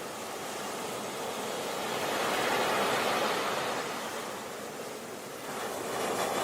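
Sea waves breaking on a beach: one wave swells and washes in about two to three seconds in, draws back, and the next begins to build near the end.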